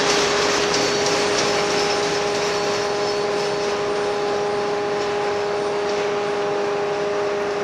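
Ballast hopper cars of a Union Pacific maintenance-of-way train rolling on the rails as the end of the train moves away: a steady rushing wheel noise that eases slightly in the first second, with a steady hum of several pitches underneath.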